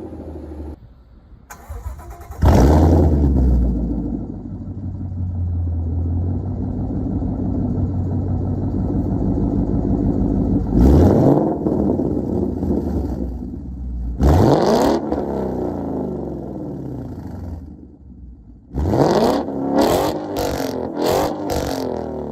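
2015 Ford Mustang GT's 5.0 L V8 through a Roush cat-back exhaust with H-pipe. It fires up with a loud flare about two and a half seconds in and settles into a steady idle. It is revved twice, then given several quick blips near the end.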